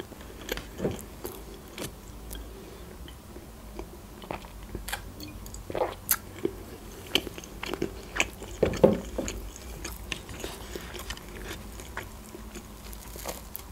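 A person chewing soft khachapuri cheese bread with wet mouth clicks coming at irregular moments. Near the end there is a soft tearing as the bread is pulled apart by hand.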